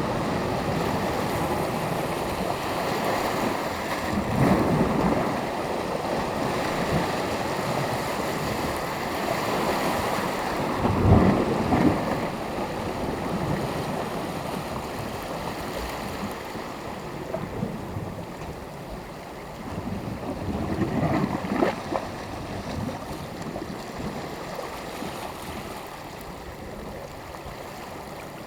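Small waves washing onto a beach, surging about every several seconds, with the strongest wash about eleven seconds in, and growing quieter toward the end. Sea breeze buffets the microphone.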